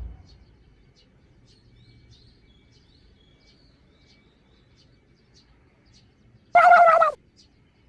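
Faint, scattered bird chirps over a quiet outdoor background. About six and a half seconds in, a loud pitched sound with a wavering tone cuts in for about half a second and stops abruptly.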